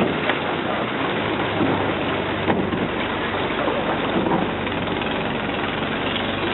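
A river slow boat's engine running steadily under way, a low even hum under a wash of wind noise on the microphone.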